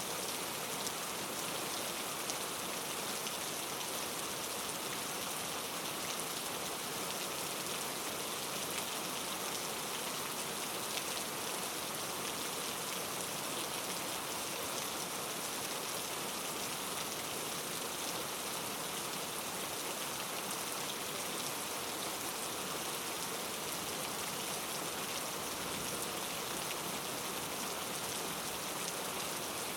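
Steady rain falling: an even hiss of rainfall with faint scattered drop ticks, unchanging throughout.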